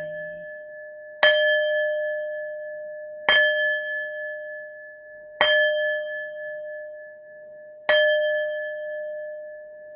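Singing bowl struck four times, about two seconds apart. Each strike rings on with one steady low tone and one higher tone that fade slowly and carry into the next strike.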